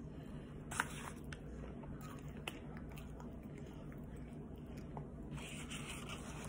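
Faint chewing of food, with a few small clicks in the first few seconds, over a low steady hum; a short rustle near the end.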